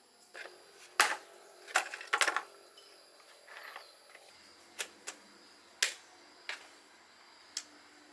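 A series of sharp, irregular knocks and clinks, about nine in all, the loudest about a second in and a cluster around two seconds in, like hard objects or tools being handled and set down.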